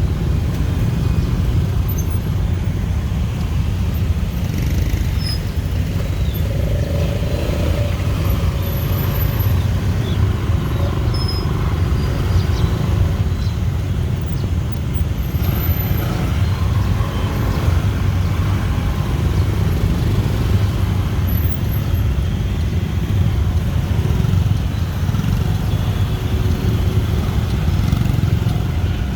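Steady, dense rush-hour street traffic: motorbikes, cars and tuk-tuks running and passing close by in a continuous low rumble.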